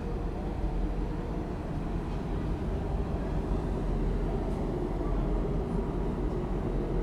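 Diesel locomotive engines running at a standstill: a steady low rumble with a faint steady hum above it.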